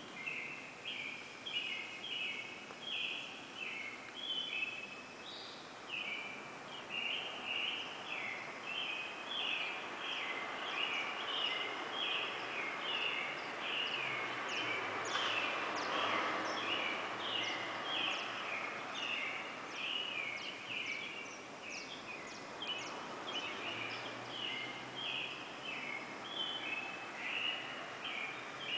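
Pre-dawn bird chorus: a dense, continuous stream of short, high chirps from many calls overlapping, over a steady background hiss that swells briefly around the middle.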